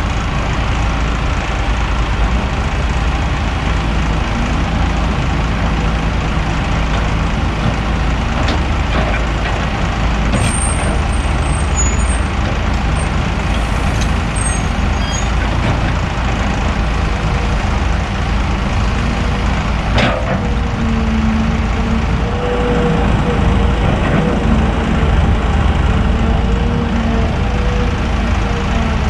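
Kobelco SK200 excavator's diesel engine running steadily and loudly while working, with a few sharp knocks. About two-thirds of the way in a wavering whine joins it.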